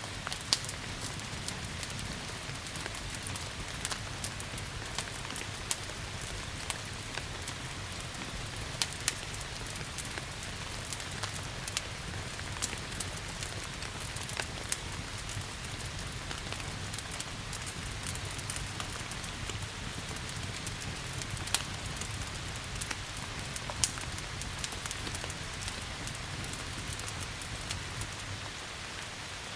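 Steady rain hiss with the sharp, irregular pops and crackles of a wood fire burning in a fireplace.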